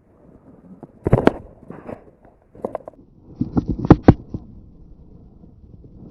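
A series of sharp knocks and thumps, likely gear or hands bumping the kayak: a couple about a second in and a quick cluster between three and four seconds in.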